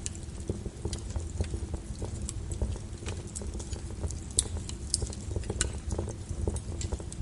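Log fire in a fireplace crackling: irregular sharp pops and snaps, a few louder ones in the middle, over a steady low rumble of the flames.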